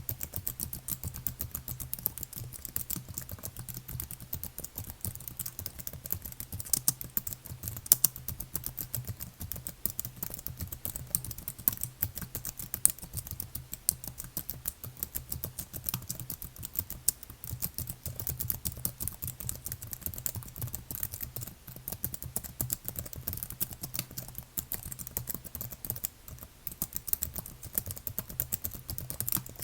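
Computer keyboard being typed on in a continuous, fast stream of key clicks, with an occasional louder keystroke.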